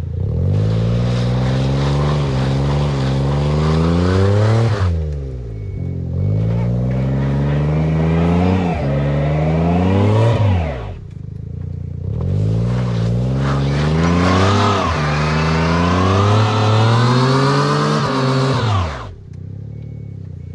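Suzuki Jimny's engine revved hard three times, each run climbing in pitch for several seconds before dropping back sharply, as the car works in deep snow.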